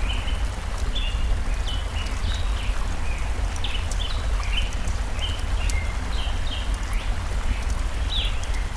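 Small songbirds chirping in short, quick notes over a steady low rush of running stream water, with scattered sharp crackles from a wood fire.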